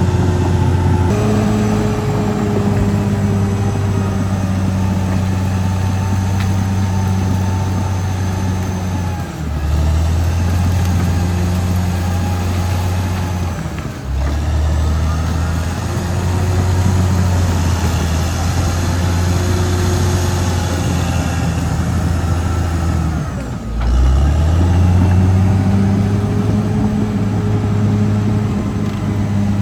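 Caterpillar D6R XL bulldozer's diesel engine running steadily under load. Its pitch dips briefly and recovers three times: about a third of the way in, near halfway, and late on. A faint high whine sits over it.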